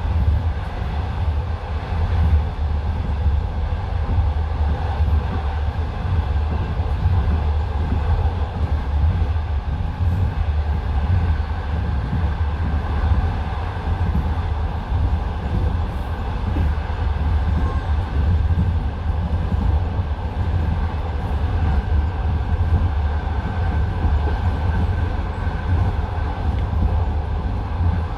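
Passenger railway carriage running at speed, heard from inside: a steady low rumble of the wheels on the rails with the running noise of the car.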